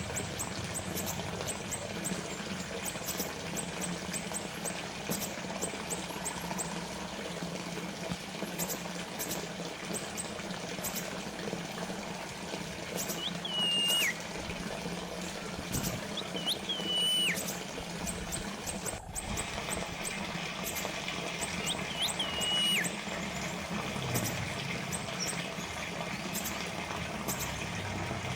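Water trickling and splashing steadily from a small fountain, with a short bird whistle heard three times, each a quick upward flick, a held note, then a drop.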